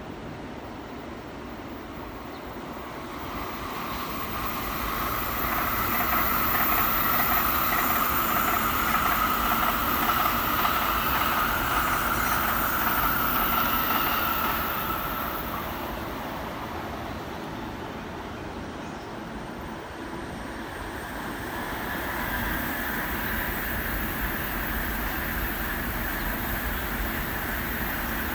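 A green-and-orange JR electric commuter train runs past on the near tracks: its motors and wheels build from about three seconds in, are loudest between about six and fourteen seconds, then fade. A second, weaker rush of train noise rises near the end as a Shinkansen passes farther off.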